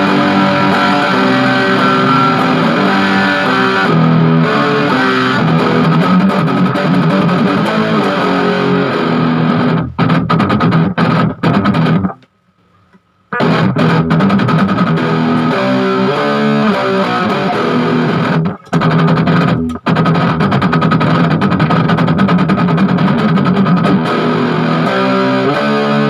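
Electric guitar played loud through an Orange Crush 20-watt solid-state amplifier on its distorted dirty channel, in continuous riffs and chords. The playing breaks off for about a second near the middle, then resumes with a couple of short stops.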